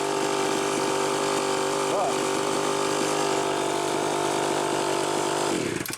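Homelite Super XL two-stroke chainsaw engine running steadily, then shut off abruptly near the end.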